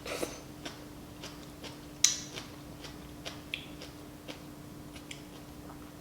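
Close-up eating of noodle soup: faint chewing with scattered short wet mouth clicks, the sharpest about two seconds in, over a faint steady hum.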